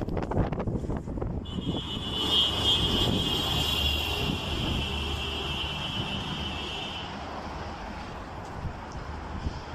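Sandstorm wind buffeting the microphone with a low rumble, gusting hard in the first second. A high, steady whistling tone sounds from about a second and a half in until about two-thirds of the way through, then stops.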